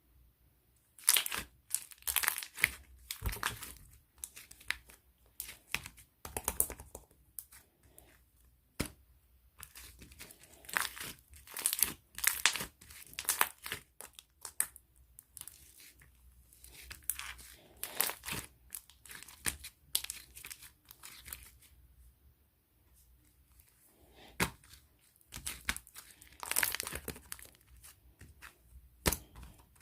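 Crinkly material being crumpled and torn by hand in irregular bursts, some brief and some lasting a second or two, with short pauses between.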